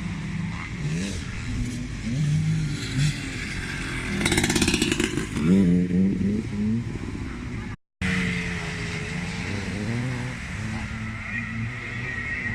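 Classic motocross motorcycles racing, their engines revving up and falling back through the gears, with one bike passing close and loudest about four to six seconds in. The sound cuts out for a moment shortly before the eighth second.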